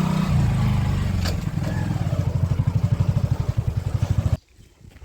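A vehicle engine running with a low rumble that settles into a fast, even throb, then stops abruptly about four seconds in.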